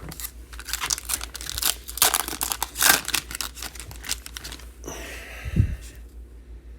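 Trading-card pack wrappers crinkling and tearing as packs are ripped open and handled, loudest in the first four seconds. There is a single dull thump about five and a half seconds in.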